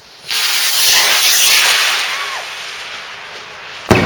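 A large firework rocket launching: a loud rushing hiss starts suddenly and fades over about three seconds as it climbs, then a sharp bang near the end as it bursts.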